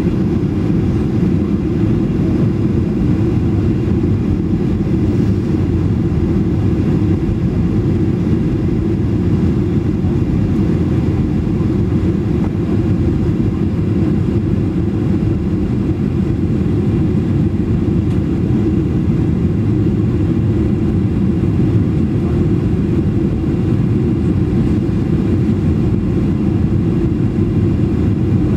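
Steady low drone of engine and airflow noise inside the cabin of a Ryanair Boeing 737 in flight.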